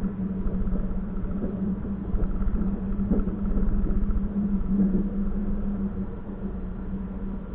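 Passenger train running, heard on board: a steady low rumble with a constant hum, swelling a little in the middle.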